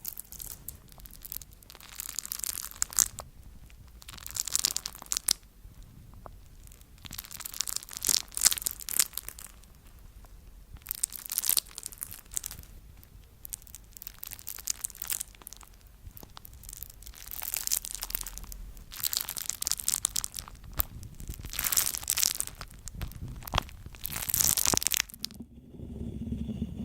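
Something brittle being crushed, in repeated bouts of crisp crackling about a second long every second or two. Near the end the crackling stops abruptly and a low hum takes over.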